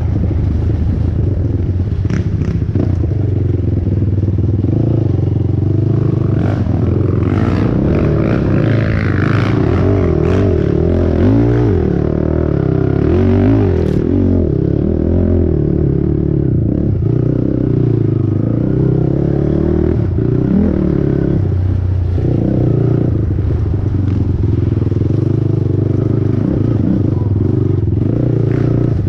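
Honda TRX450R quad's single-cylinder four-stroke engine revving up and down under load while racing, with clattering knocks from the machine through the middle.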